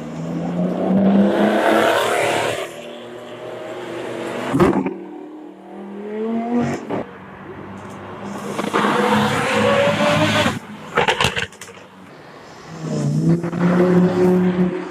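Supercar exhaust: several high-performance cars accelerating past one after another, each engine's pitch rising as it revs. The stretches are loud and broken by abrupt cuts between them.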